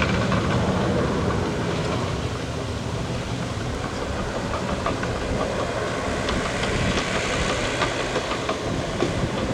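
Jet aircraft engine noise, a steady broad rush that eases a little over the first few seconds and then holds.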